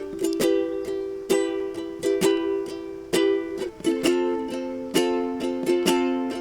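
Ukulele strummed in a repeating strumming pattern, each strum sharp and then ringing, with a change of chord about four seconds in.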